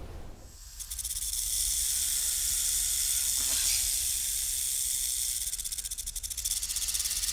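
Python hissing: a steady, high-pitched hiss with a fine rapid flutter that starts about a second in and holds without a break.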